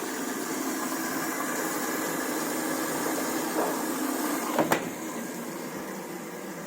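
A machine running steadily, with two sharp knocks close together about four and a half seconds in.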